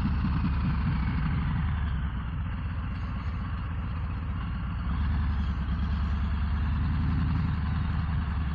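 Harley-Davidson Low Rider ST's Milwaukee-Eight 117 V-twin running at low speed, easing off about two seconds in and picking up again about five seconds in.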